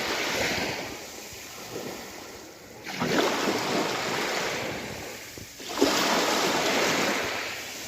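Sea waves breaking on the shore, each one a surge of rushing water that swells and fades, with a new wave about every three seconds.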